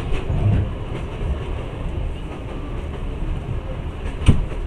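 Passenger train running on the rails, heard from inside the carriage: a steady low rumble, with one sharp knock near the end.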